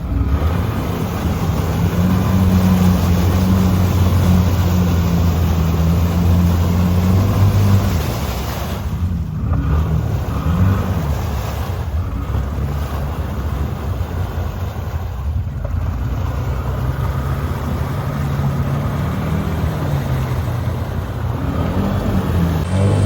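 An off-road vehicle's engine running at high revs while stuck in mud with its tires spinning. It holds steady for about eight seconds, then eases off and revs up and down.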